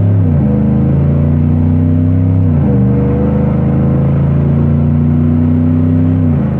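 Exhaust of a GM Silverado/Sierra 1500's 5.3L V8 through a Flowmaster Outlaw Extreme cat-back system with a single turndown exit. The engine note runs loud and deep, drops sharply in pitch about half a second in and again about two and a half seconds in, as when shifting up, and falls once more near the end.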